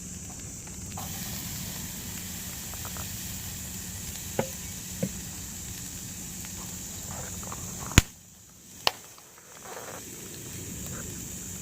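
Food sizzling over a wood campfire, a steady hiss broken by a few sharp knocks. The loudest knock comes about eight seconds in and is followed by a brief quieter stretch.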